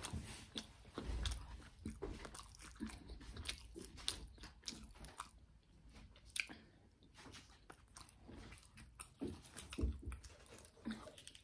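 A person chewing a crisp fried spring roll: quiet, irregular crunches and mouth smacks, easing off for a couple of seconds about halfway through before starting again.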